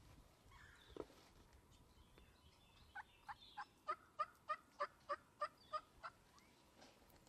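Wild turkey yelping: a run of about eleven short, evenly spaced yelps, three or four a second, starting about three seconds in. A single brief sound comes about a second in.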